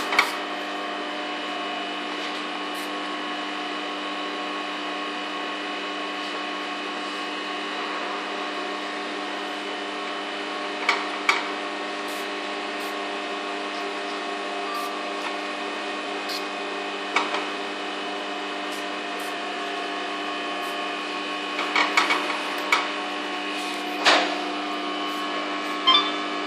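Steady machine hum made of several fixed tones, with a few short clicks and knocks of something being handled, the busiest run near the end.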